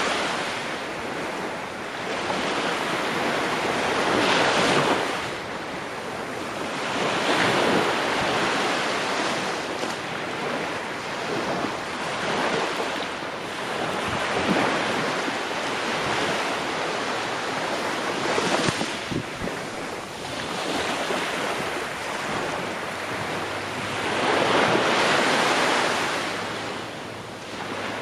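Ocean surf: waves breaking and washing in, the rush of water swelling and fading every three to four seconds.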